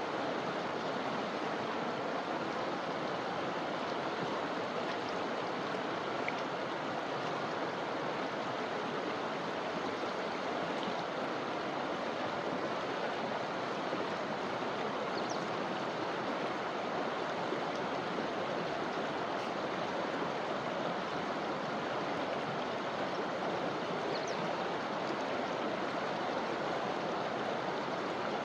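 Forest river flowing steadily, an even rushing of water over stones and branches, with a few faint brief high chirps.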